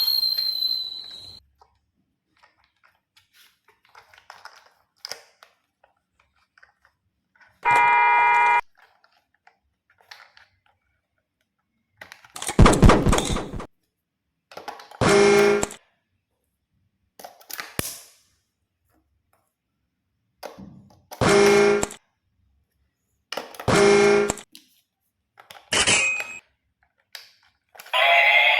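A string of short, separate sound effects with silence between them: a ding at the start, then several horn-like tones of about a second each and a short noisy burst. Music begins at the very end.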